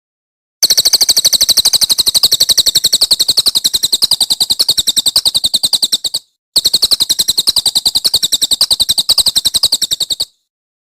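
A songbird's rapid, high-pitched trill of evenly repeated notes, delivered in two long bursts with a short break a little past the middle.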